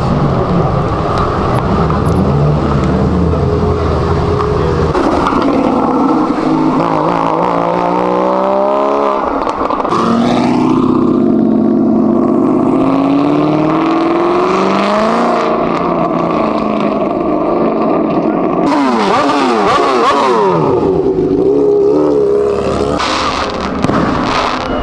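High-performance car engines running loud, with several hard revs and accelerations: the engine pitch sweeps up and down a few times, about eight and ten seconds in and again around twenty seconds.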